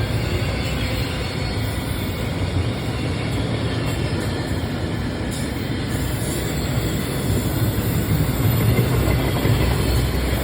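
Freight train passing close by: a steady rumble and roar of wagons rolling over the rails, growing a little louder in the second half.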